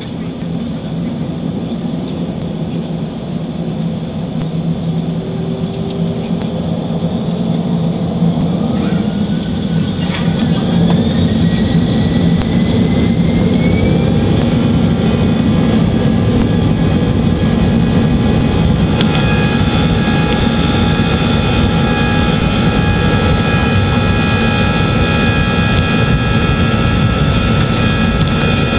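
Airbus airliner's jet engines spooling up to takeoff thrust, heard from inside the cabin. A whine climbs in pitch about ten seconds in, then the engines settle into loud, steady running with several held tones for the takeoff roll.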